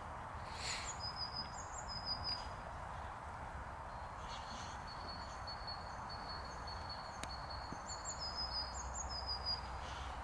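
A small songbird singing short, high chirping phrases in two bouts, over steady outdoor ambience with a low rumble.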